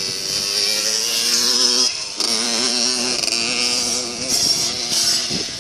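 Small pit bike engine revving hard under racing throttle, cutting out briefly about two seconds in and picking straight back up.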